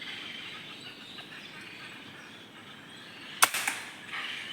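A single sharp gunshot about three and a half seconds in, with a short echo after it, fired at birds. Before it there is a steady high hiss of outdoor background.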